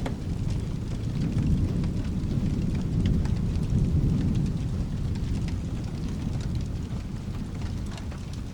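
Low rolling thunder that swells over the first few seconds, peaks about halfway through, then slowly fades. Underneath it, steady rain with scattered small sharp ticks.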